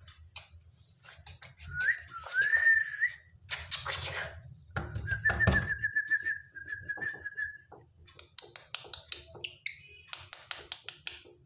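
Cockatiel whistling: a short rising whistle, then a longer wavering whistle held at one pitch, and a brief higher curling note near the end, with scratchy chirps and clicks between them.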